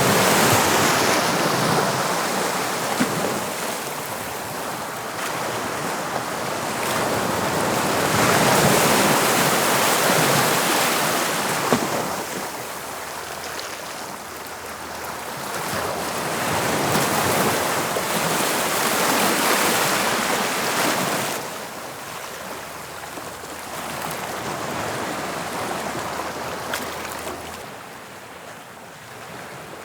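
Waves of the English Channel breaking and washing on the shore. They swell and ebb in long surges, about every eight or nine seconds.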